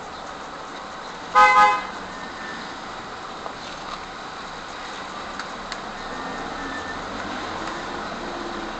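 A car horn gives a short double toot about a second and a half in, over steady road and traffic noise.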